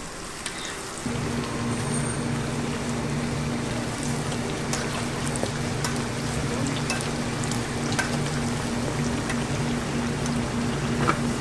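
Pancakes frying in oil on a flat steel griddle, a steady sizzle with scattered small crackles and occasional clicks of the tongs. A low steady hum comes in about a second in.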